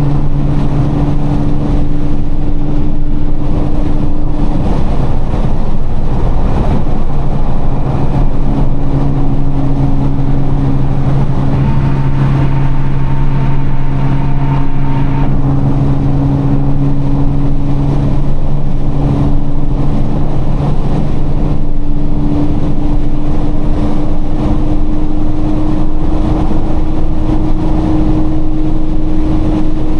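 Nissan GT-R R35's twin-turbo V6 cruising at highway speed, heard from inside the cabin over steady tyre and road noise. The engine drone holds an even pitch, then rises slightly near the end as the car gently picks up speed.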